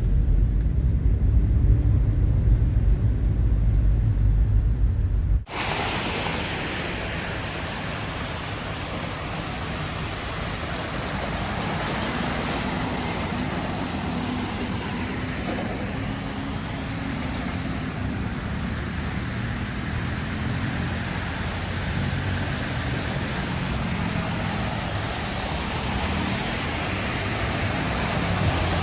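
Low, steady rumble of a car driving. About five seconds in it cuts off suddenly, and a steady hiss of heavy rain and tyres on a wet road takes over.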